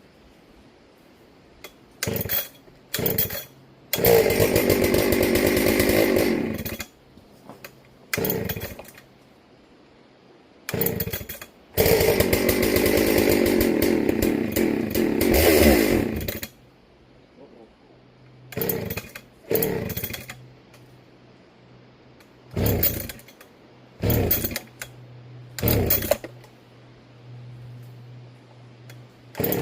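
Dolmar two-stroke chainsaw running. It gives a couple of short revs, then two long full-throttle runs of a few seconds each that sag in pitch before dropping back. After that come several quick throttle blips over a steady idle.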